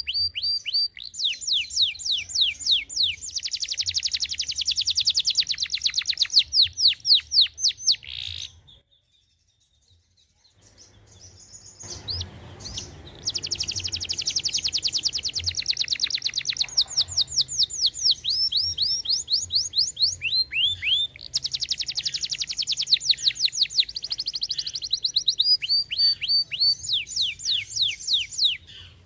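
Canary singing long, fast, high trilled rolls in phrase after phrase. The song breaks off for about three seconds about nine seconds in, then resumes.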